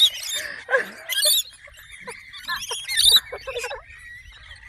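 Several birds calling close by in short, sharp, high-pitched chirps and squawks, irregular and overlapping.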